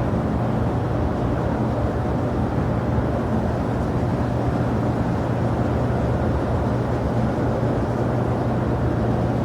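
Steady rumble of jet airliner engines across an airport apron, with a constant low hum and no change in level.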